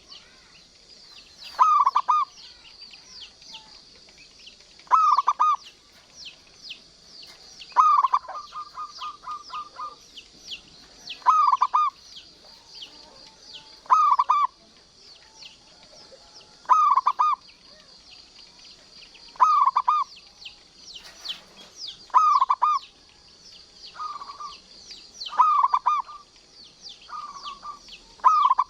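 Zebra dove (perkutut) cooing: a short phrase of quick, rolling notes repeated about every three seconds, coming closer together near the end. High chirping runs underneath throughout.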